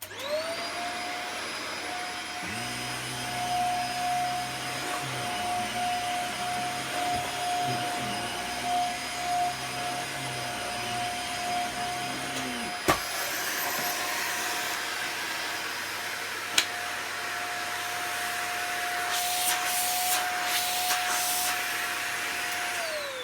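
Dyson DC50 upright vacuum cleaner switched on: its motor whine rises quickly to a steady high pitch, runs, then falls away as it is switched off near the end. A lower hum joins from about two seconds in until about thirteen seconds, ending with a click. The machine has weak suction, which the owner puts down to a blockage from plaster dust.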